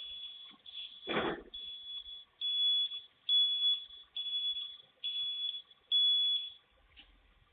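Garbage truck's reversing alarm beeping: a high steady tone repeated eight times at a little under one beep a second, with a dull thud about a second in.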